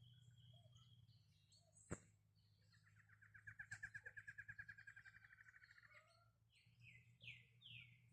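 Faint birdsong: a rapid trill lasting about three seconds, followed near the end by three short falling notes. A sharp click about two seconds in, over a faint steady low hum.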